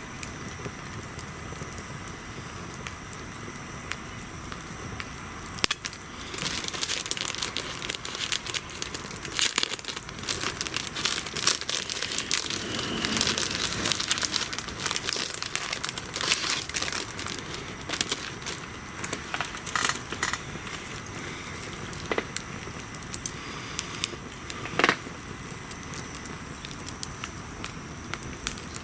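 Wood bonfire crackling with sharp pops and snaps, which come thick and louder from about six seconds in for around twelve seconds, then thin out to scattered pops.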